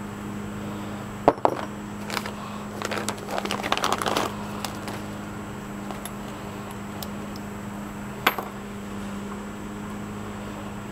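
Small metal parts clinking and rattling as they are handled: two sharp clinks, then a run of rattling for about a second and a half, and one more clink near the end, over a steady low hum.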